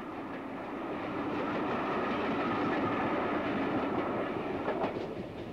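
Steam-hauled train of passenger coaches rolling past, the wheels running over the rail joints. The sound swells to its loudest around the middle and eases off, with a few sharp wheel clicks near the end.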